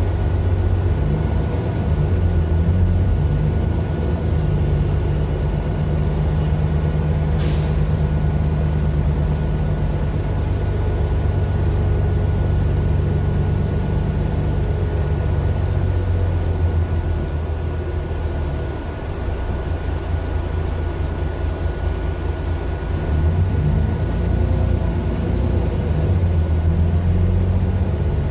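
Mercedes-Benz Citaro LE city bus running, its Daimler OM 457 hLA six-cylinder diesel heard from on board. The engine hum eases off a little past halfway and pulls harder again about three quarters in. A steady high whine runs under it, and there is a short click about a quarter of the way in.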